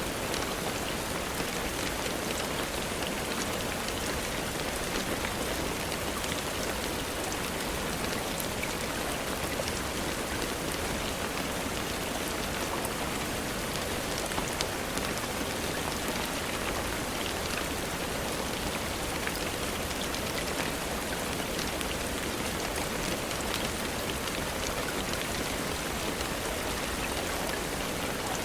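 Steady rainfall, an even hiss with scattered faint ticks of individual drops.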